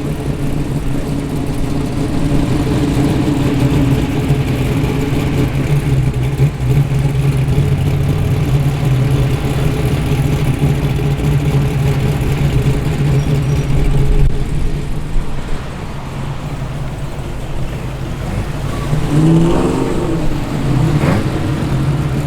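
Engines of cars driving in slowly, running with a steady low note and a short rise and fall in pitch near the end.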